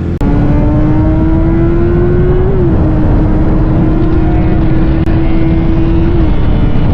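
Honda CBR650F inline-four engine running at high revs through an aftermarket Austin Racing exhaust, loud. Its pitch climbs slowly, drops a step about two and a half seconds in, holds steady, then drops again near the end.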